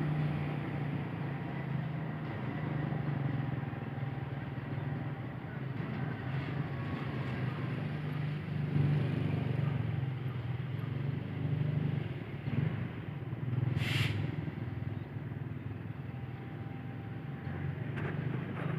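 Steady low engine rumble of passing vehicles, with one sharp click about fourteen seconds in.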